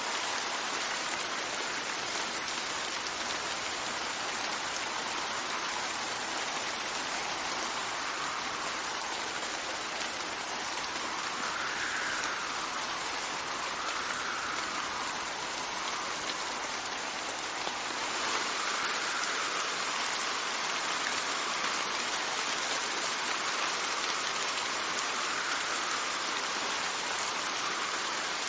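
Steady rain falling, with wind swelling and easing every couple of seconds.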